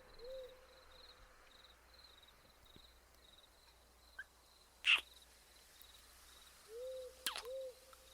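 Forest nature ambience: an owl hooting softly, once near the start and twice near the end, over faint cricket chirping that fades after a couple of seconds. Two sharp clicks, about five and seven seconds in; the first is the loudest sound.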